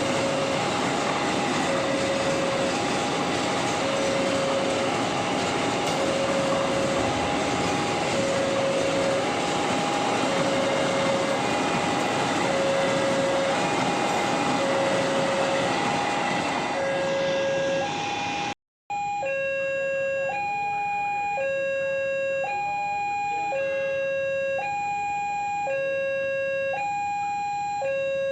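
Railway level-crossing warning alarm sounding a two-tone electronic chime, a low note and a high note alternating about once a second. For the first two-thirds it sounds over the steady rumble of a passing train. After a brief dropout the chime goes on alone and clearer.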